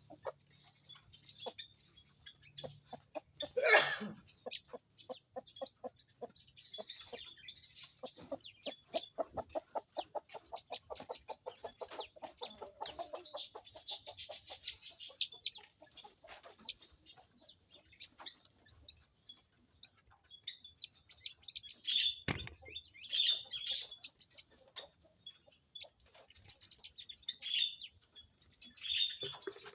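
Birds calling: short high chirps throughout, with runs of rapid clucking notes, the longest from about eight to fourteen seconds in, and a louder call about four seconds in.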